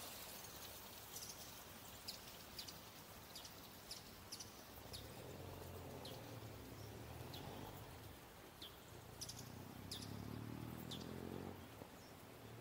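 Small birds chirping with short, high calls scattered throughout. From about five seconds in, a low engine hum rises in pitch and fades out shortly before the end.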